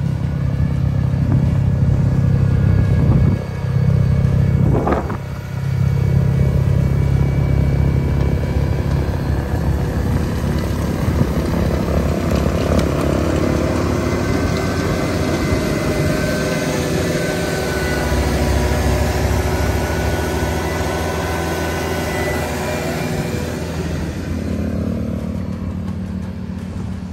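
Engine running steadily, its level dipping briefly about three and five seconds in.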